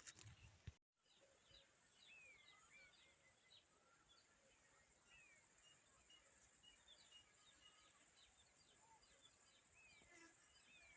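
Faint bird calls: many short chirps and downward-sliding whistles repeating over a low, even background hiss, after a brief dropout about a second in.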